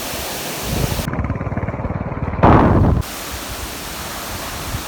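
Wind rushing over the microphone during a motorbike ride. A louder, pulsing rumble builds from about a second in and cuts off abruptly about three seconds in.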